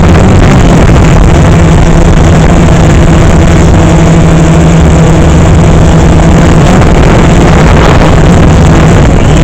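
DJI Phantom 3 quadcopter's motors and propellers running in flight: a loud, steady hum that holds one pitch.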